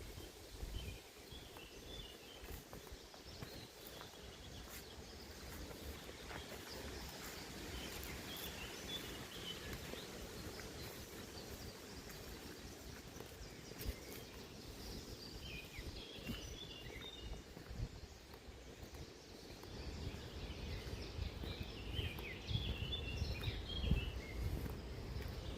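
Small birds chirping in short bursts every few seconds, over a steady faint hiss and a low rumble that grows louder near the end.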